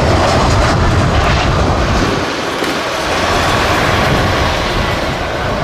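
Jet airliner engine roar, loud and steady, laid over as the toy plane's flying sound; the deep rumble thins about two seconds in.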